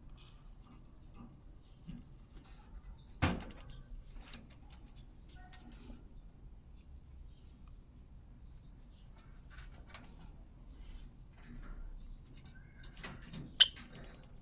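Parrots biting and chewing apple: scattered soft crunches and beak clicks, with two sharp, louder snaps about three seconds in and near the end.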